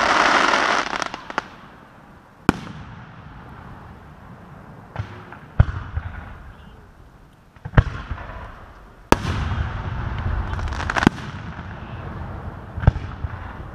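Aerial firework shells bursting: about seven sharp bangs spaced a second or two apart. There is a loud rush of noise in the first second or so, and another longer one a little past the middle.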